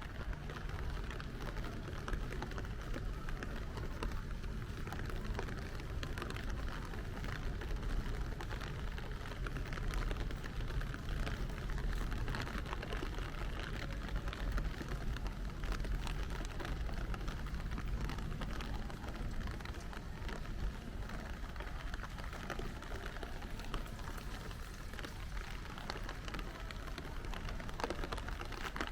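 Steady rain falling, a constant patter of fine drop ticks over a low, even rumble.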